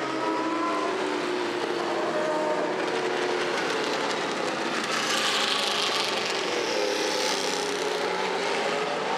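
Several historic racing car engines running at once, their notes slowly falling and rising as the cars move and accelerate, with a brief swell of hiss about five seconds in.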